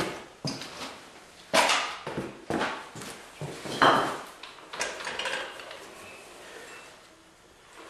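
Metal parts and tools clanking and scraping during tractor transmission removal, in a series of sharp knocks, the loudest about a second and a half in and again about four seconds in, settling to quieter handling near the end.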